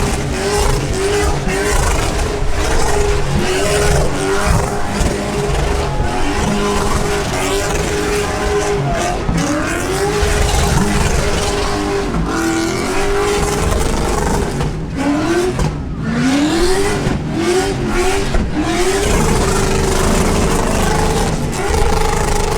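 V8 muscle car doing a burnout: the engine is held at high revs with stuttering dips and repeated quick revs, several in a row past the middle, over the steady hiss of spinning tyres.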